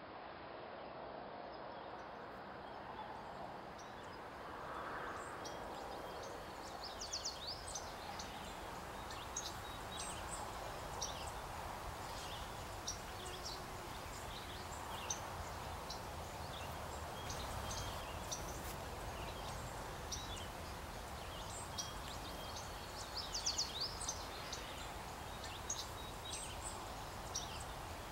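Outdoor ambience: small birds chirping on and off, with a couple of quick trills, over a steady background noise.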